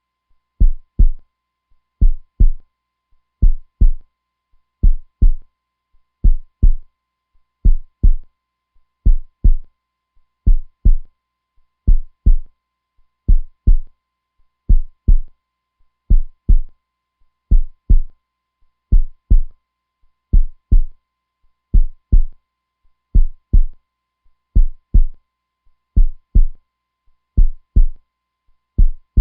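Heartbeat sound, a steady slow rhythm of deep double beats (lub-dub), one pair a little more than every second. A faint steady tone sits underneath.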